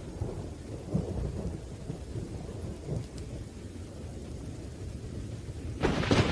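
Thunderstorm: steady rain with low rumbling thunder, and a sharper, louder crack of thunder breaking in near the end.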